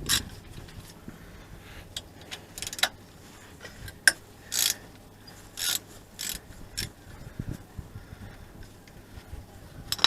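Metal hand tools clicking and rasping against an engine's parts: a scattered series of sharp clicks and short grating bursts, over a faint steady low hum.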